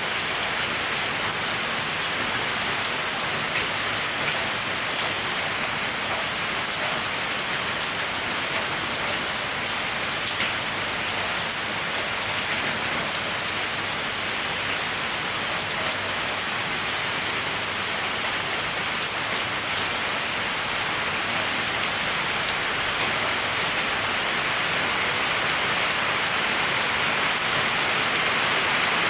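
Steady rainfall: an even hiss of rain with scattered drop patter on surfaces, growing slightly louder near the end.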